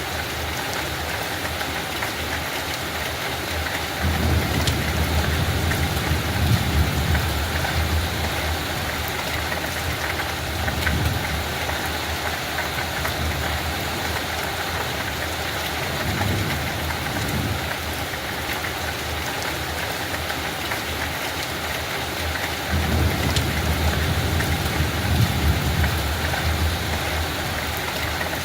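Steady rain falling, a dense hiss of drops with scattered single drop ticks. Low rumbles swell and fade three times: a few seconds in, about halfway through, and again near the end.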